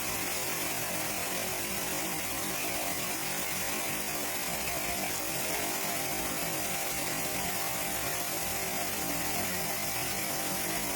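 Artificial rock waterfall running: a steady, even rush of falling water.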